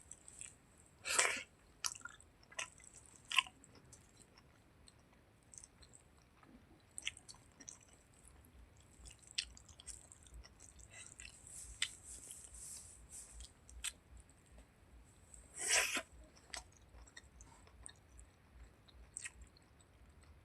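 A person chewing chicken-skin curry with rice close to the microphone: wet mouth clicks and smacks at an irregular pace, with two louder, longer noises, about a second in and about three-quarters of the way through.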